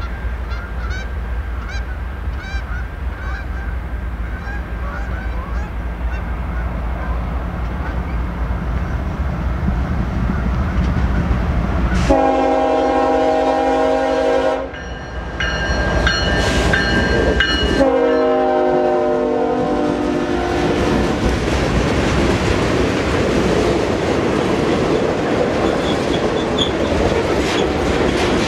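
A Norfolk Southern diesel freight locomotive approaches with a low engine hum while geese honk. About twelve seconds in its horn sounds two long blasts, the second dropping in pitch as the locomotive passes. Hopper cars then roll by with wheels clacking over the rail joints.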